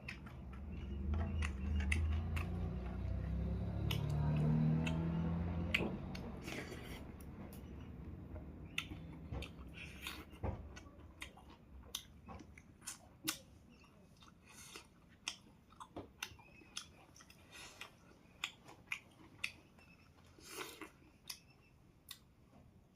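Close-up eating sounds: chewing with irregular small clicks and smacks. A low, muffled rumble fills the first six seconds or so.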